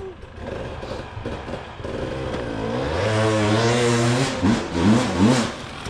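Dirt bike engine running, getting louder about halfway through, then revved in a few quick throttle blips near the end.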